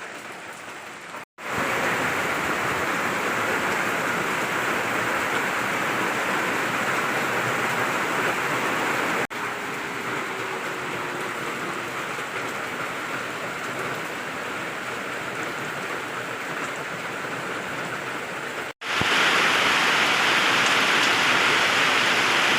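Heavy rain falling, a steady even hiss. It breaks off abruptly about a second in, near the middle and near the end, each time resuming at a slightly different loudness.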